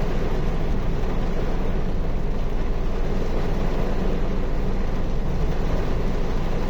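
Rain falling steadily: an even, unbroken rushing noise with a deep rumble underneath.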